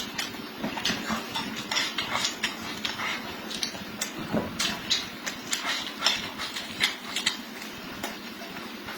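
Close-up eating sounds: a person chewing food, with many small irregular mouth clicks, several a second.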